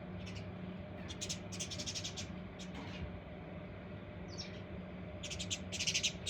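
Small birds chirping in rapid bursts of high notes, with a louder cluster of chirps near the end and a single short falling note in between, over a steady low hum.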